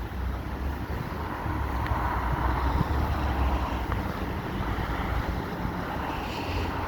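Storm wind buffeting the microphone: a steady, gusting rumble and hiss.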